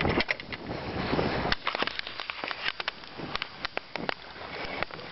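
Scattered small clicks and knocks from fish and tackle being handled in a boat, over light wind noise on the microphone.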